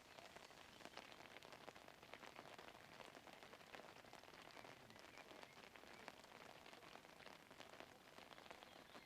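Faint rain pattering, a dense scatter of small drop ticks.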